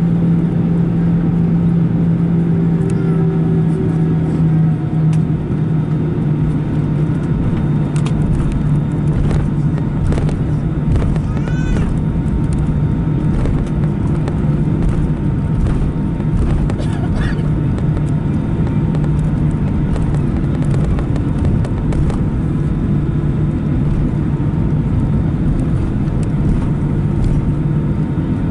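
Steady low rumble in the cabin of an Airbus A319, with a strong steady hum that drops slightly in pitch about five seconds in. A few faint clicks sound over it.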